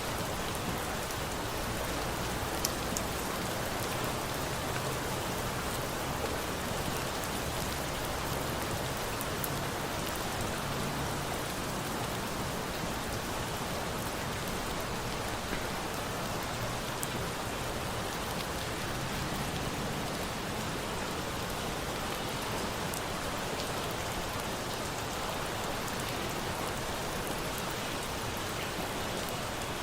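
Steady rain falling in a constant hiss, mixed with a wood fire that gives a few sharp crackles.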